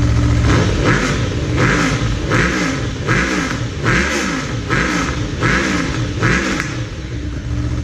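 2012 Aprilia Tuono V4 engine through a Black Widow short-pipe aftermarket exhaust, idling, then blipped about eight times in quick succession, each rev rising and falling in under a second, before dropping back toward idle.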